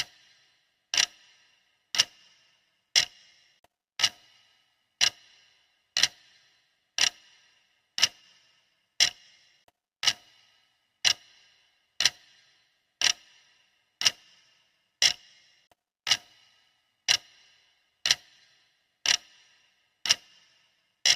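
Clock-style timer ticking sharply, one tick each second, each tick a crisp click with a short ring.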